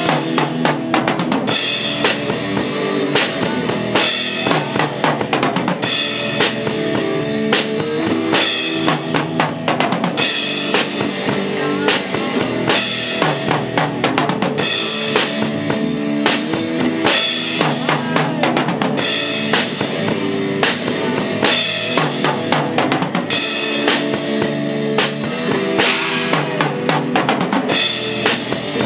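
A band rehearsing an instrumental passage, with a drum kit playing a steady beat of bass drum and snare over sustained pitched instruments.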